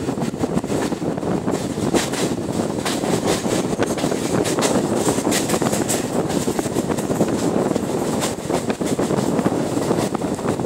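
Steady running noise of a moving passenger train carriage, heard from its open door: a continuous rumble with many short clicks and rattles from the wheels and coach, and wind buffeting the microphone.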